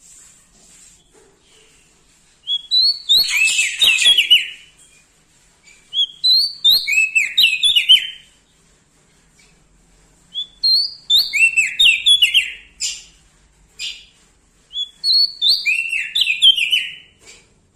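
Prenjak daun songbird singing: four loud phrases a few seconds apart, each a quick run of chirping notes that step down in pitch.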